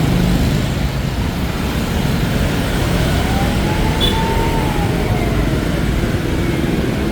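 Dense city street traffic, mostly motorbike engines running steadily. A faint tone rises and then falls from about three to five and a half seconds in.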